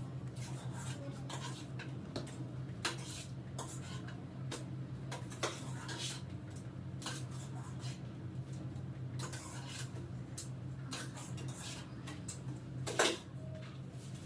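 Scattered light clinks and taps of utensils, the loudest one about 13 seconds in, over a steady low hum.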